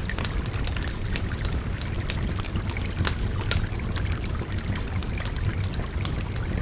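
Wood fire crackling with many sharp, irregular pops over the steady rush of a babbling river.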